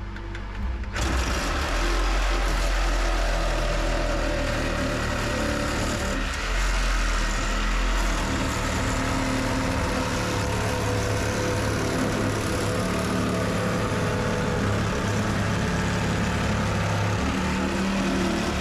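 A motor-driven machine running steadily, starting abruptly about a second in, with a change in its low hum around eight seconds in.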